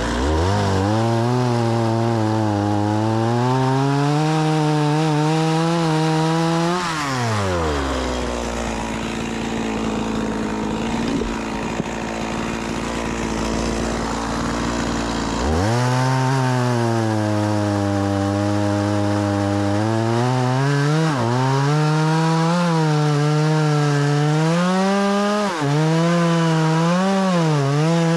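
Stihl MS 180 two-stroke chainsaw revving up and cutting through a firewood log. About seven seconds in it drops back to idle for several seconds. It then revs up and cuts again, its pitch dipping briefly a few times as the chain bogs under load.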